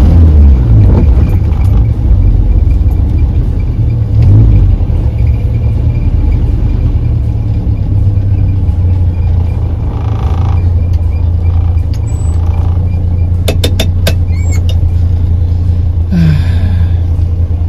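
Morris Minor's four-cylinder engine running with a steady low drone as the car drives in slow town traffic, the revs briefly rising about half a second in and again about four seconds in. A few sharp clicks come about fourteen seconds in.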